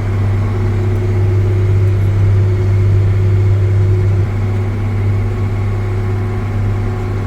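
Engine of a 1980-era swather running steadily while cutting a field: a continuous low drone with steady hum tones above it. It eases slightly a little past halfway.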